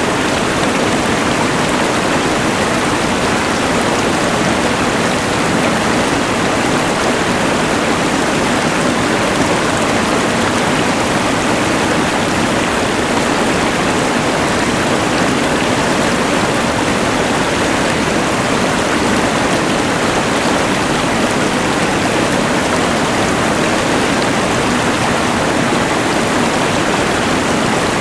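Rushing mountain river mixed with the steady hiss of a LectroFan white noise machine: an even, unbroken rush of water and noise that does not change.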